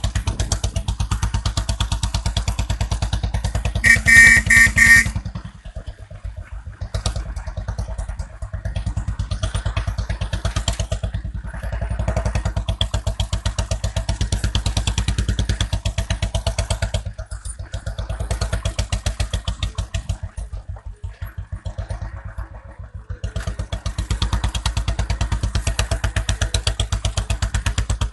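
Royal Enfield Classic 350 single-cylinder engine running through an aftermarket exhaust, its steady beat falling quieter for a few seconds several times. About four seconds in, a brief loud pitched tone sounds, broken into several short beeps.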